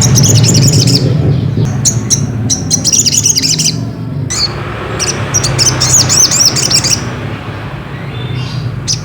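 Sogok ontong (little spiderhunter) calling: bouts of rapid, high, sharp chirps broken by short pauses, over a steady low hum.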